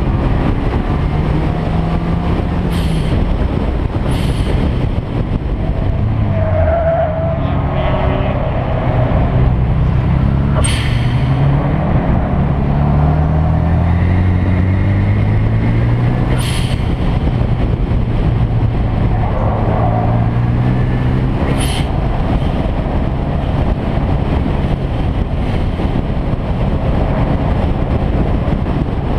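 Car engine under hard acceleration on a race circuit, its pitch climbing and dropping back several times, with a few short sharp clicks between.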